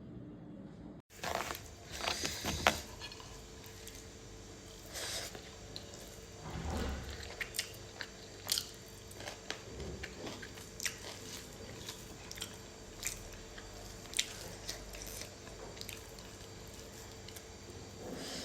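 Close-miked chewing and mouth sounds of a person eating fried pork liver: irregular wet smacks and sharp little clicks. They begin about a second in, after a brief gap.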